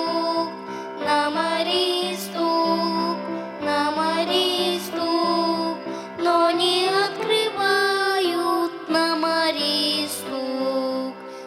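Music: a church song, with voices singing a melody over steady instrumental accompaniment.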